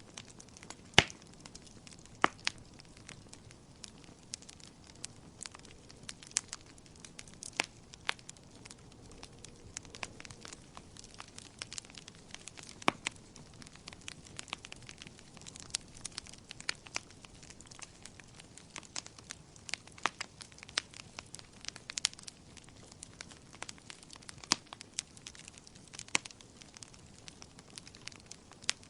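Wood fire crackling in a fireplace: irregular sharp pops and snaps from the burning logs over a faint steady hiss, with a few louder cracks scattered through.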